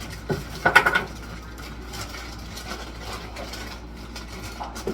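A quick clatter of hard items knocked together, with a brief ring, just under a second in, then quieter scattered clicks and knocks as things are handled, over a steady low hum.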